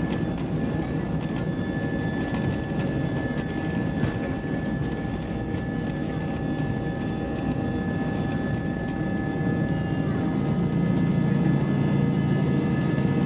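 Cabin noise of an Airbus A320-232 with its IAE V2500 engines running: a deep rumble with a steady whine and small rattles. The engine hum grows louder about ten seconds in.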